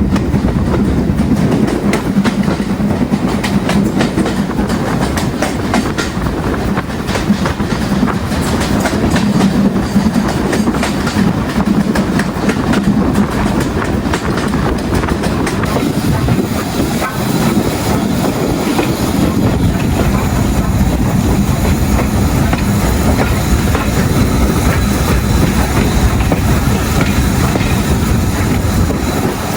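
Steam-hauled train running along the line behind an LMS Stanier Class 8F locomotive, its wheels clacking over the rail joints in a continuous rumble with a steady low hum.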